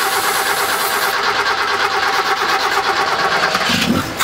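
Toyota 4K four-cylinder engine cranking on its starter, trying to start on a freshly fitted Weber 32/36 carburettor. An aerosol spray hisses into the carb over about the first second, and the cranking cuts off suddenly near the end.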